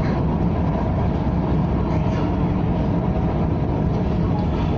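KTM ETS electric train running, a steady low rumble with an even hiss above it.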